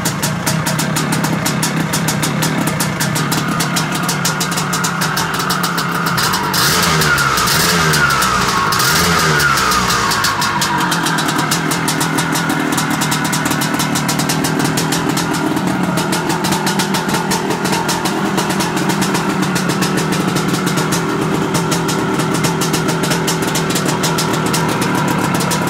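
The freshly rebuilt single-cylinder two-stroke engine of a 1975 Aermacchi Harley-Davidson SX250 motorcycle idling, revved up briefly twice about seven and nine seconds in, then settling back to a steady idle.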